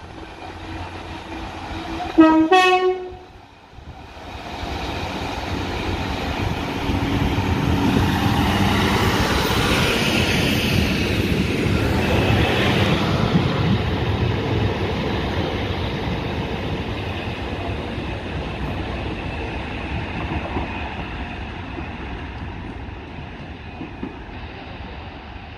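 Two coupled Class 153 diesel multiple units sound a brief two-tone horn, a lower note then a higher one, about two seconds in. Their underfloor diesel engines and wheels then rumble alongside the platform, growing louder and slowly fading.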